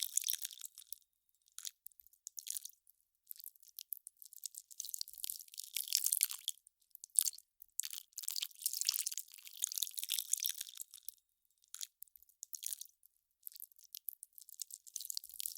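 Melting ice crackling: high, crisp crackles in irregular bursts a second or two long, with short pauses between.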